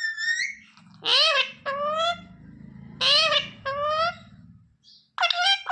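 Parrot talking: high-pitched, word-like phrases of two syllables each, repeated about four times with short pauses, as a parrot mimics human speech.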